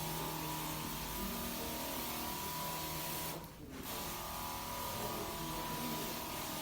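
A machine runs steadily with a motor hum and a hiss, stops for a moment about three and a half seconds in, then runs on.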